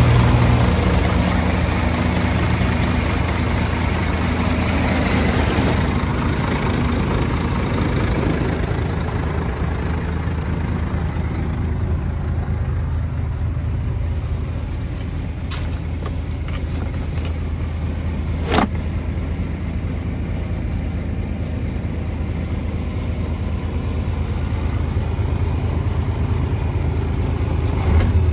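Scania 124 360 truck's straight-six diesel engine idling steadily, with one sharp click about two-thirds of the way through.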